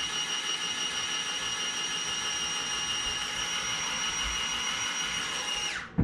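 Small electric motor of a handheld dishwasher running with a steady high whine while it spins a bowl against its brush, then switched off and winding down in pitch near the end.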